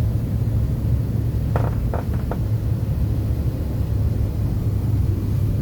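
Airliner cabin noise: a steady low engine and airflow rumble, with a few faint brief sounds about two seconds in.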